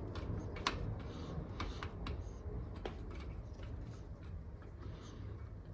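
Scattered light clicks and ticks of hand tools on metal as a loose part is tightened back onto the bike, over a low steady hum.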